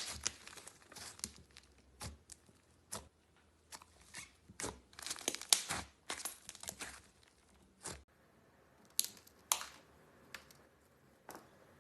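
Slime being handled by hand, giving irregular crackling and popping clicks, some in quick clusters, with quiet gaps between.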